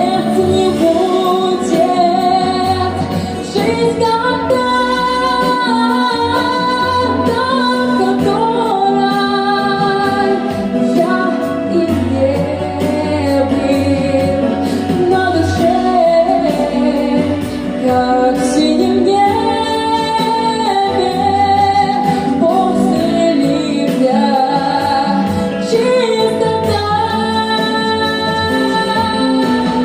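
A female vocalist singing a song over instrumental backing music.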